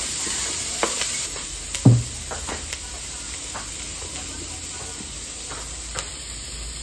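Chopped red onion sizzling in hot oil in a wok, loud at first and settling after about a second and a half into a steadier, quieter fry. A spatula clicks and scrapes against the pan, with one louder knock about two seconds in.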